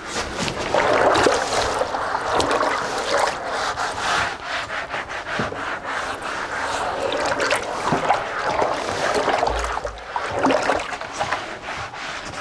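A cloth sack of boiled soybean mash being squeezed and rubbed by hand to press the soy milk out of the okara: continuous rough rubbing and pressing with many small clicks, and one low thud near the end.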